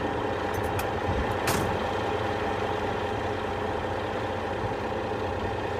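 Heavy tow truck's engine idling steadily. A few light clicks and a short hiss come about a second and a half in.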